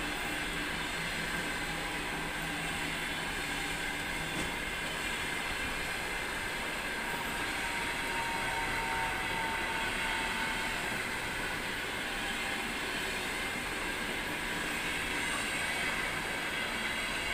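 Passenger coaches of a through train rolling past without stopping: a steady rumble and hiss of steel wheels on the rails.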